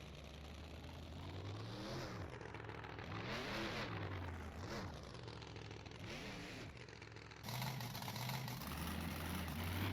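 Monster truck engine idling and revving, its pitch climbing and dropping four or five times, fairly faint. It steps up louder near the end.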